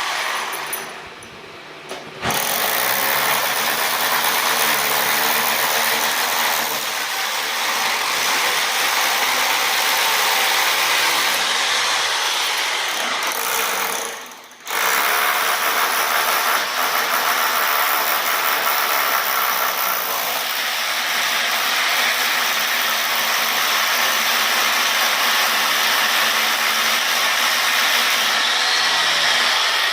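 Electric woodworking power tool running steadily, cutting out briefly about two seconds in and again about halfway through, then starting up again each time.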